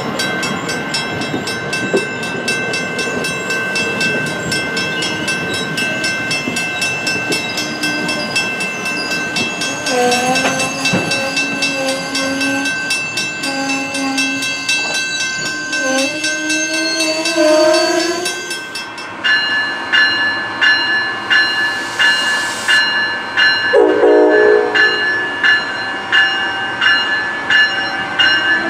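Amtrak passenger train rolling past at a grade crossing, with the crossing bell ringing. From about ten seconds in a train horn sounds a string of short and longer blasts for about eight seconds. The bell then clangs about twice a second, with a short horn blast a few seconds later and another horn starting right at the end as an ACS-64 electric locomotive arrives.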